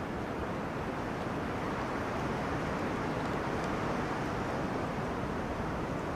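Wind blowing through forest trees, a steady rushing that swells a little in the middle.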